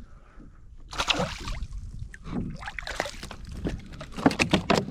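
Water sloshing and splashing at the side of a kayak as a hooked weakfish is brought in, ending in a quick run of sharp splashes.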